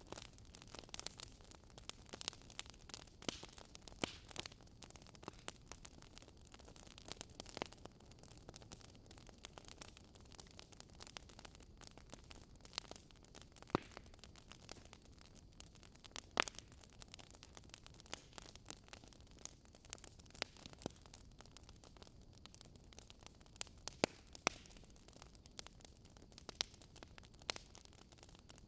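Wood fire crackling in a fireplace: irregular sharp pops and snaps, a few of them much louder, over a low steady hiss.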